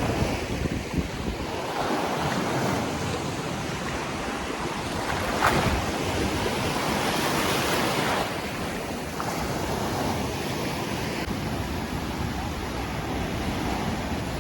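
Surf breaking and washing up a sandy beach, a steady wash that swells louder about halfway through and then falls back.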